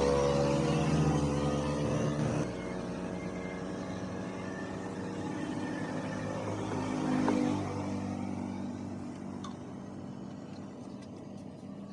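Motorcycle engine running, swelling briefly about seven seconds in and then settling lower.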